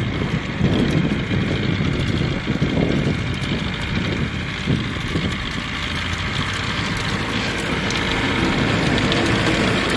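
A plastic toy truck dragged on a string over stony, dry dirt: its hard plastic wheels rolling and crunching, giving a steady crackling noise full of small clicks.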